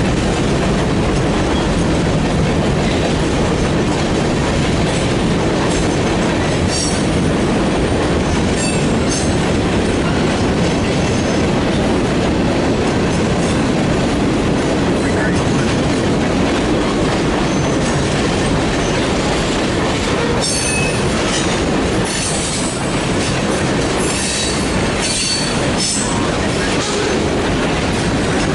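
Freight train cars rolling past on the rails in a steady rumble, with brief high wheel squeals about seven seconds in and again several times in the last third.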